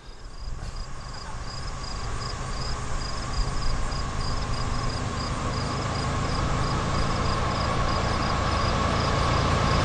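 A freight train approaching, its low rumble growing steadily louder.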